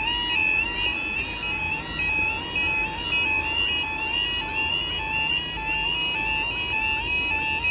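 Level crossing warning alarm sounding: a steady two-tone yodel stepping rapidly back and forth between two close pitches, with more than one alarm unit sounding slightly out of step.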